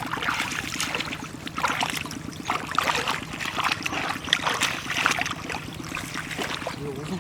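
Water splashing and trickling in irregular bursts over a steady low motor hum.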